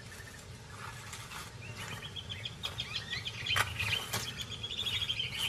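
A rapid, high-pitched ticking trill from wildlife, starting about two seconds in, with two sharp clicks in the middle.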